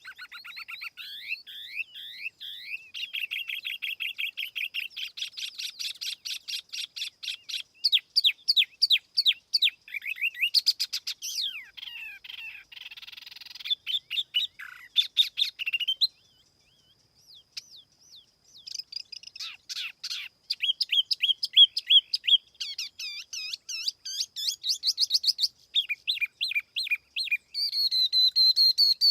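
Tiểu mi songbird singing a lure song of fast chirping trills and whistled phrases, pausing for about two seconds just past the middle before it resumes.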